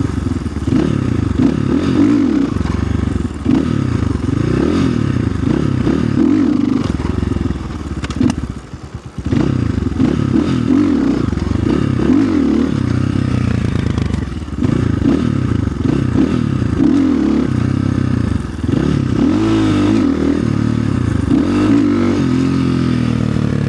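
Orion RXB250XL dirt bike engine running under the rider, its pitch rising and falling with the throttle, briefly dropping off about eight seconds in before picking up again.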